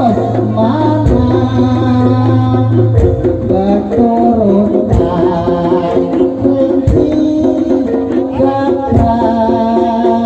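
Javanese jaranan (kuda lumping) music: a wavering, sustained pitched melody over hand-drum strokes, with a sung line, played loud and continuous.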